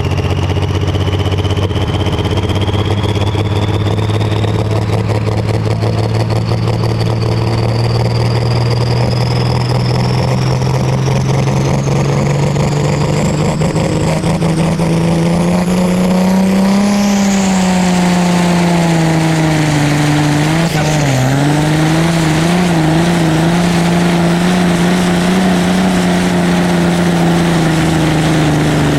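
Limited Prostock pulling tractor's diesel engine running hard at high revs, its pitch climbing slowly for over half the time, then wavering and dipping before it settles. A thin high whine rises steadily in pitch above it through the first half.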